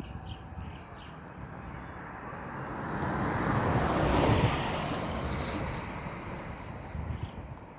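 A fast train passing by: a rushing noise that builds, peaks about four seconds in and fades away, over a steady low wind rumble on the microphone.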